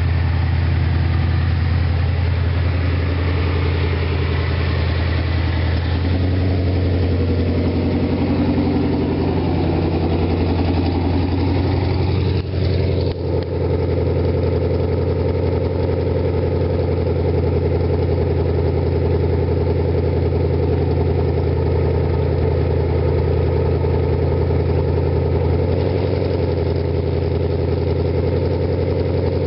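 2017 Ford Mustang GT's 5.0-litre V8 idling steadily through BBK headers, off-road pipes and an MBRP Street cat-back exhaust, with a loud, deep drone and a brief dropout about 13 seconds in.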